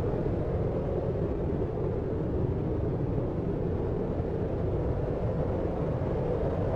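Steady deep noise, weighted to the low end like brown noise: an even, unbroken rumble with no separate events in it.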